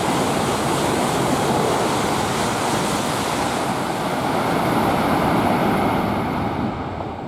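Tohoku Shinkansen train passing through the station at speed without stopping: a loud, steady rush of air and running noise that dies away near the end.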